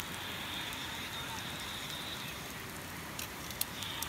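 Wood campfire crackling, with a few sharp pops over a steady rushing hiss. A faint high steady tone stops a little past halfway.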